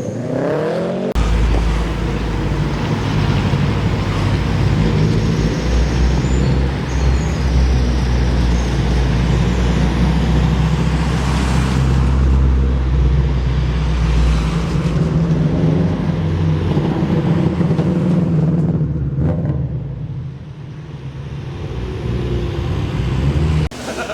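A car engine running with a deep, steady rumble, which drops away about fourteen seconds in, leaving lighter vehicle noise.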